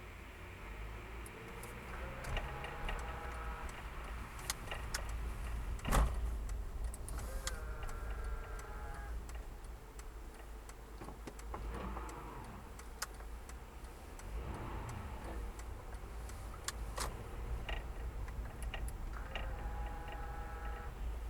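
Car cabin on the move: low road rumble with irregular light clicking rattles from the dashboard, a rattle traced to the air duct behind the glove box.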